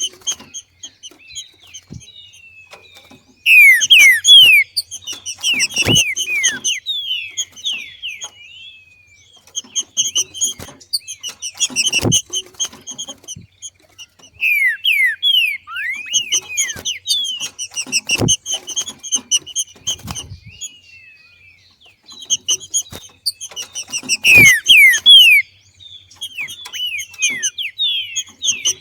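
Green-winged saltator (trinca-ferro) hen giving the 'macheado' call: repeated bouts of sharp, quickly sliding chirps, the chatter of a bird coming into breeding condition. A sharp knock comes about every six seconds.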